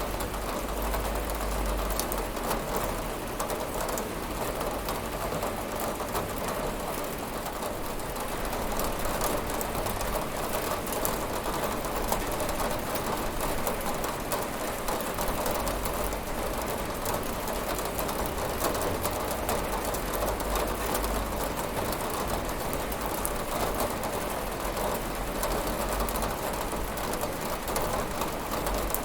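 Steady rain falling against a window, an even wash of noise dotted with fine ticks of single drops and a low rumble underneath, with no thunder.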